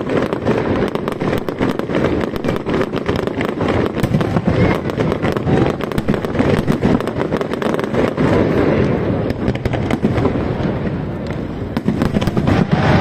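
Fireworks display: many rapid bangs and crackles overlapping into a loud, unbroken din.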